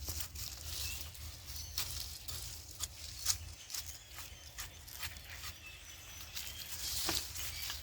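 Manure being mixed into garden-bed soil: irregular scrapes and small knocks of working the dirt.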